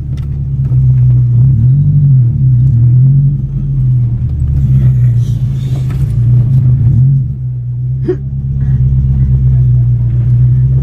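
Mitsubishi Galant drag car's engine and exhaust droning loudly, heard from inside the cabin while it is driven at low, fairly even revs. The pitch dips and rises a little a couple of times, and there is a brief knock about eight seconds in.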